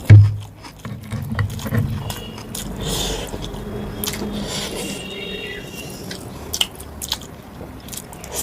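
Close-miked chewing and biting of mutton curry and rice, wet and uneven with small clicks, with a loud low thump just after the start.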